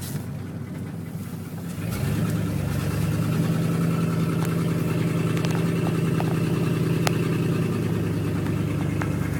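Ford Thunderbird car engine running as the car drives, stepping up in loudness about two seconds in and then holding a steady note.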